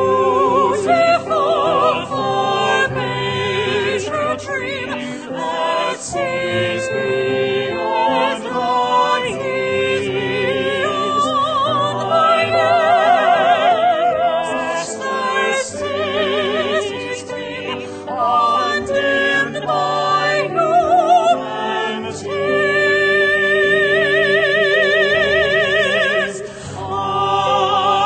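Classical-style singing with a wide vibrato on long held notes, over instrumental accompaniment, as music in a worship service.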